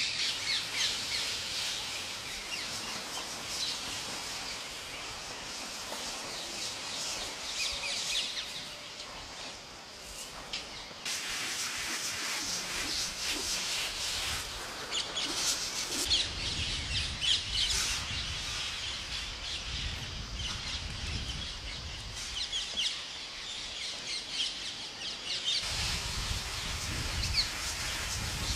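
Many birds chirping and calling, among them parrots, in quick high overlapping calls. A low rumble joins in about halfway through and again near the end.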